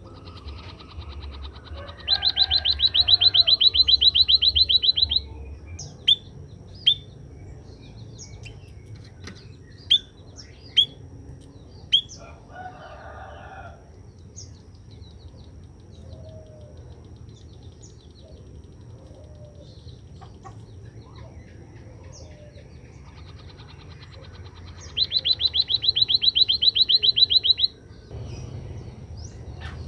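White-headed munia (emprit kaji) singing: a loud, fast, rattling trill about two seconds in that lasts some three seconds, a handful of single sharp chirps over the next several seconds, and a second rattling trill of about three seconds near the end.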